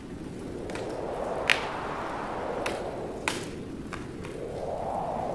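Wood fire crackling in a fireplace, with a sharp pop every second or so, over a rushing wind that swells near the end.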